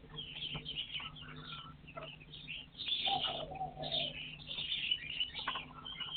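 Birds calling, presented as partridges: a busy run of short, high chirps, with a lower, drawn-out call about three seconds in.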